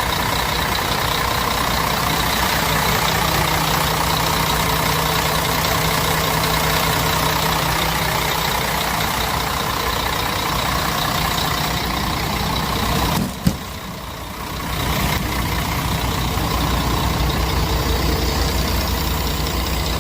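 Bus diesel engine idling steadily. About 13 seconds in there is a sharp click, and the sound drops for about two seconds before returning to its steady level.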